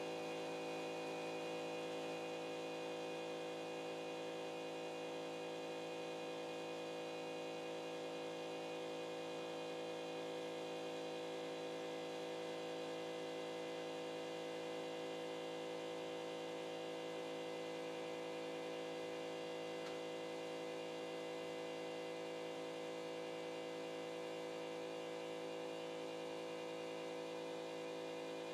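Steady electrical hum of a CNC pen-drawing machine's stepper motors, a constant cluster of even tones that does not change.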